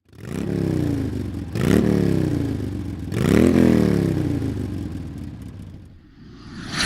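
Yamaha XSR900's inline three-cylinder engine revved three times, each throttle blip rising sharply and then falling back toward idle as the sound fades.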